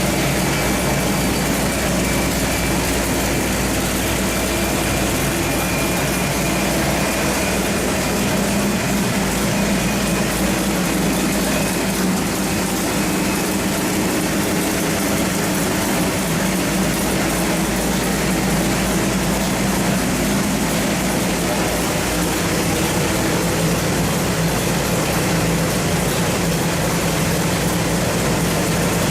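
Small-block Chevy 383 stroker V8 running steadily on an engine dyno, holding an even speed without being revved.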